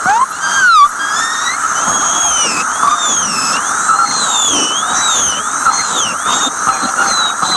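Dentist's high-speed drill whining. It climbs to its loudest just under a second in and drops off sharply, then runs on over a steady hiss with its pitch repeatedly rising and falling as it is loaded and eased.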